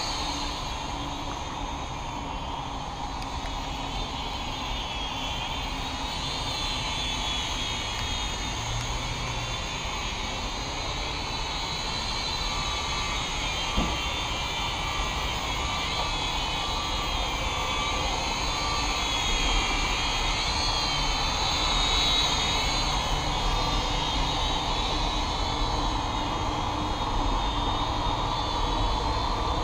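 Syma X5C toy quadcopter's motors and propellers whining in flight, the high pitch wavering up and down as the throttle changes while it manoeuvres.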